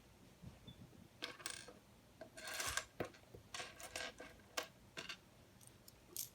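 Plastic LEGO Technic pieces being handled: a series of sharp clicks and short rattles, with a longer rattle of loose pieces a little over two seconds in.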